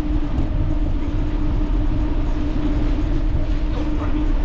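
Steady rumble of wind and motion on the microphone while riding a bicycle, with a steady low hum running throughout.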